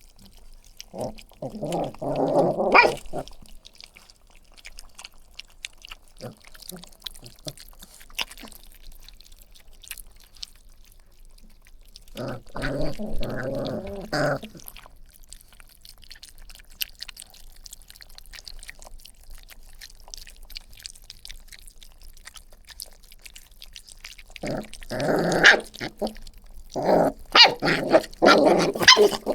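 Puppies growling and barking in three short bouts: one a couple of seconds in, one around the middle, and a longer one near the end.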